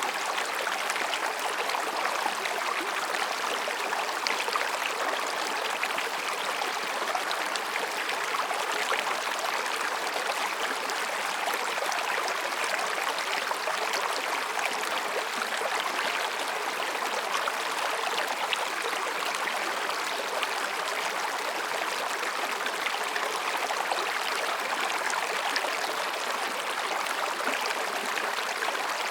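Mountain stream babbling over and between rocks: a steady, even rush of water.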